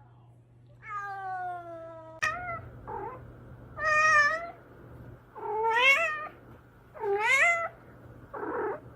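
Domestic cat meowing repeatedly, about six meows in a row. The first is long with a falling pitch, the rest rise and fall, and the last is short. A faint steady low hum sits underneath.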